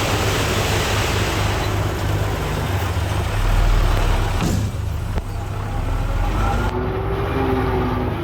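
Heavy diesel earthmoving machinery at work: a low engine drone with a broad rushing noise over it. A single sharp knock comes about four and a half seconds in.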